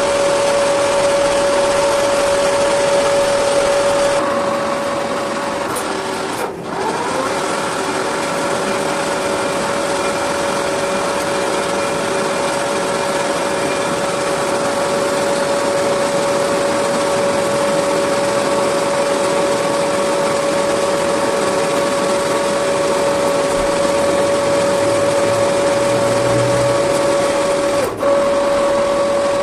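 Metal lathe running with a steady high whine. About six seconds in its pitch dips briefly and comes back up, and it dips again for a moment near the end.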